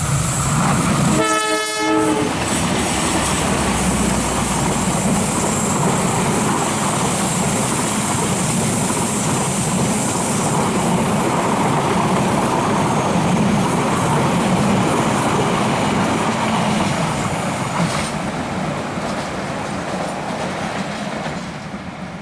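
Diesel locomotive horn sounds one short blast about a second in. A long passenger train then rolls past, with its wheels clattering over the rails, and the noise eases off near the end.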